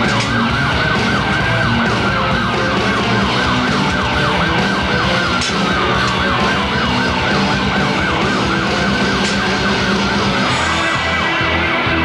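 Siren yelping, its pitch sweeping rapidly up and down several times a second, with slower falling wails over it and a pulsing low beat underneath.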